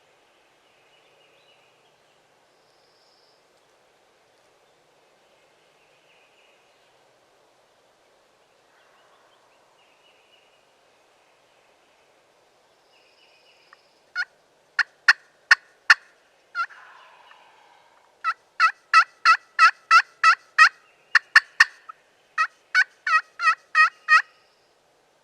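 Turkey yelping: after a quiet start with faint distant birds, loud close runs of short, sharp yelps begin about halfway through, two to three a second, in several series with brief breaks between them.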